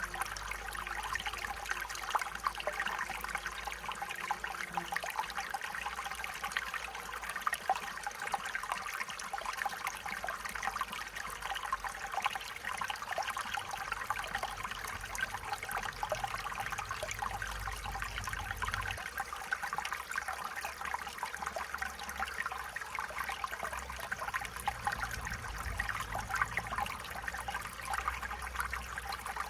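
Stream water trickling and babbling over stones, a steady running-water sound with fine splashy detail.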